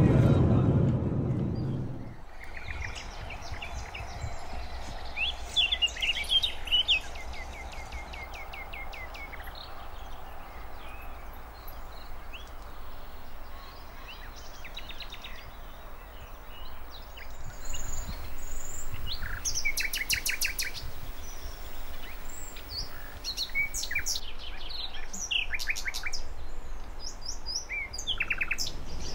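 Several birds singing and calling: short chirps and quick trills from more than one bird, over a faint low rumble. A louder low sound fades out over the first two seconds.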